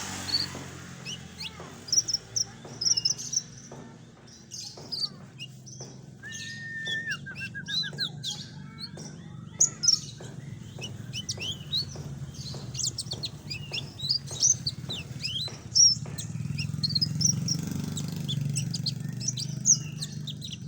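Konin songbird singing a lively, varied song of quick high chirps and whistles. About six seconds in, a held whistle breaks into a short trill. A steady low hum runs underneath.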